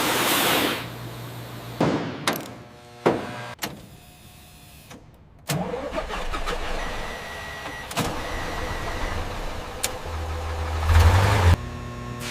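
A restored Humvee's diesel V8 engine starting about five and a half seconds in and then running steadily, louder for a moment near the end. Before it, a hiss fades out and a few sharp clicks sound.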